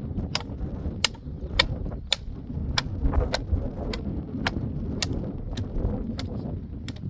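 Sharp knocks or clicks repeating evenly, a little under two a second, over a steady low rumble of wind.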